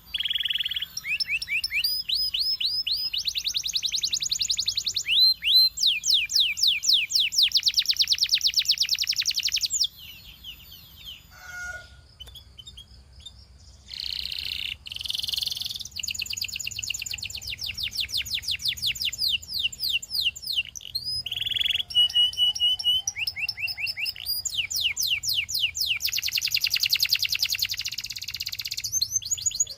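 Canary singing: fast trills of repeated sweeping notes in quick phrases, with a lull of a few seconds about ten seconds in before the song resumes.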